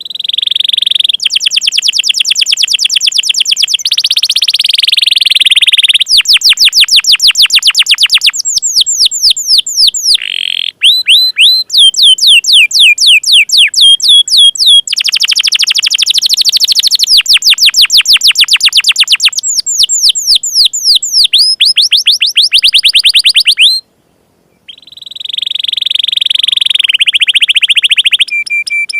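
Domestic canary singing loudly in long, fast trills of repeated high sweeping notes. The trill changes every few seconds, with a brief break about three-quarters of the way through.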